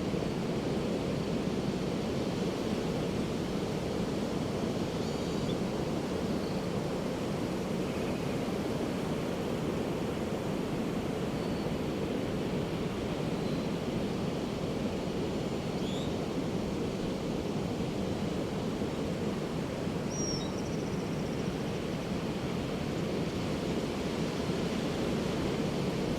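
Ocean surf breaking on a beach, a steady, even wash of noise with no distinct swells, and a few faint, brief high chirps.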